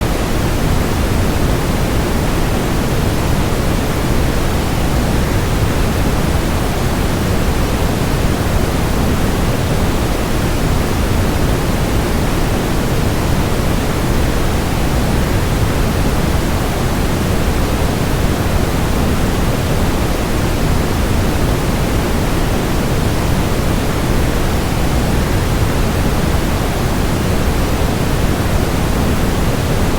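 Steady rushing noise of a waterfall blended with white noise, even and unbroken, heaviest in the low end.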